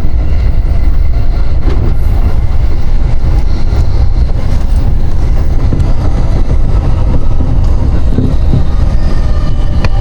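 Train running noise heard from inside the carriage: a loud, steady low rumble of wheels on the rails.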